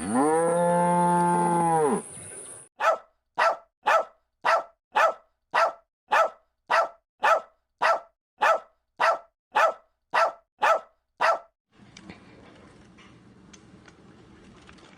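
Cow mooing once, one long call of about two seconds. It is followed by a run of about sixteen short, evenly spaced sounds, roughly two a second, and then faint background noise.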